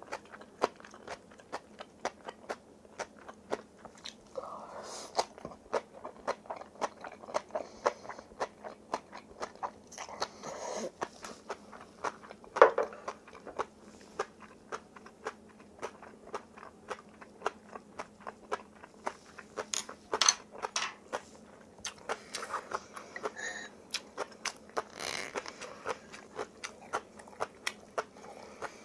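Close-up eating sounds of spicy kimchi and rice: a steady run of crunchy, wet bites and chews. A few sharper clicks stand out, the loudest about twelve seconds in.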